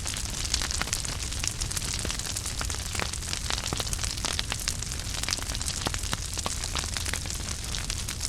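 Wood fire crackling in a fireplace: a steady hiss and low rumble of the flames with many small, irregular pops and snaps.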